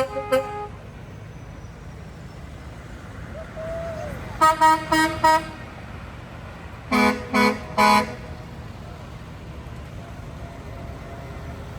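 Truck air horns sounding in short chord-like blasts, a cluster of about four some four seconds in and three more about seven seconds in, over a steady low engine rumble.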